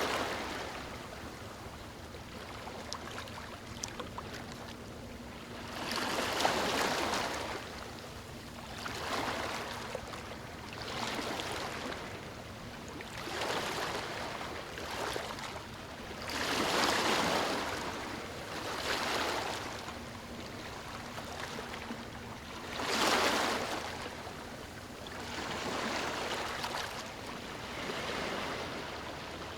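Ocean waves breaking and washing up a beach: surf swelling and falling back every few seconds, the larger waves coming about six, seventeen and twenty-three seconds in.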